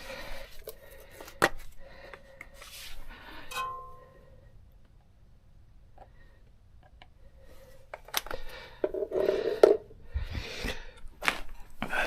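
Metal tools and parts clinking and clattering as they are handled, with a short metallic ring about three and a half seconds in and a louder burst of clatter around nine seconds.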